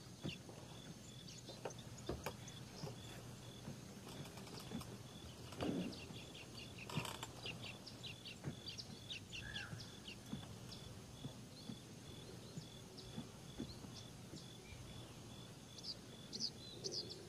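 Small birds chirping and calling, many short high notes throughout, over a faint steady low hum.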